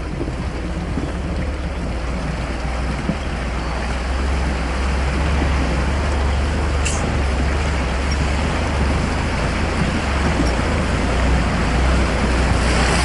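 Off-road vehicle engine running under load, a steady low drone with a noisy rush over it that builds slightly, typical of a 4x4 being driven on rough ground.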